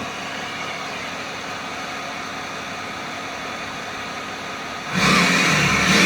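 Exhaust of a tuned BMW 330d E90's inline-six turbodiesel idling steadily, then revved sharply about five seconds in, the sound jumping much louder.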